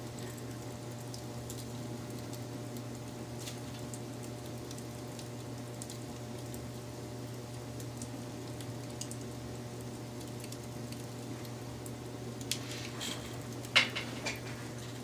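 Wood fire crackling, with scattered small pops and a few louder cracks near the end, over a steady low hum.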